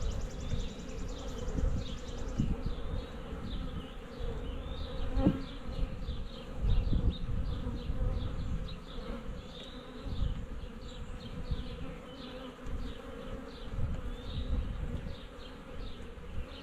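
Many honeybees buzzing steadily as they fly around and in and out of the entrance of a swarm-trap box, with short high chirps over the buzz throughout.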